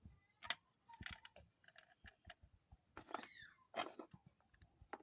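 Faint scattered clicks and taps, with a short falling squeak just past three seconds in.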